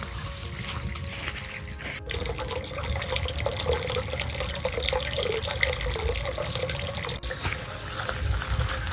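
Water running and trickling, with many small splashes and clicks.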